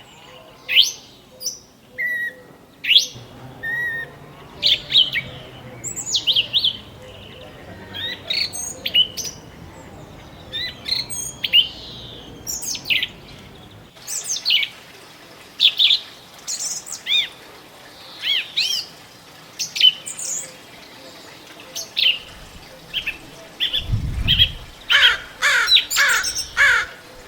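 Small songbirds chirping and tweeting in short, sharp, downward-sweeping calls, with a quick run of calls near the end. A brief low thump sounds about three seconds before the end.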